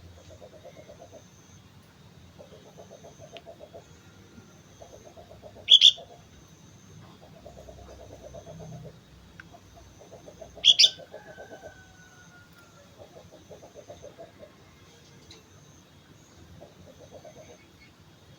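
Two short, sharp high calls of a sooty-headed bulbul, about five seconds apart, over a low, rapidly pulsing call that repeats every second or two and a faint steady high tone.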